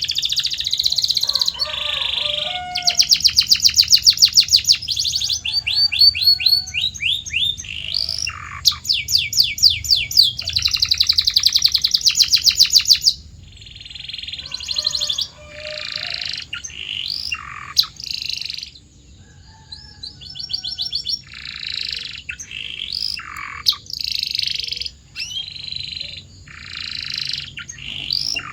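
Domestic canary singing a long song of rapid trills and rolls, phrase after phrase, with short pauses and a few gliding notes between the phrases.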